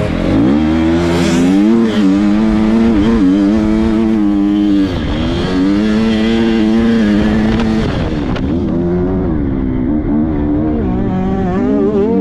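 250 motocross bike engine being ridden and revved, its pitch climbing, holding and dropping back repeatedly as the throttle is opened and shut.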